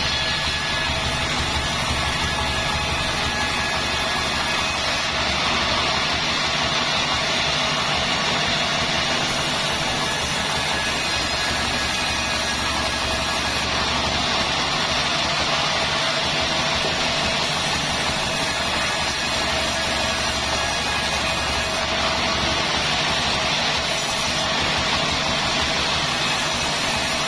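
Sawmill machinery running steadily: a constant, unchanging mechanical drone with a faint steady whine.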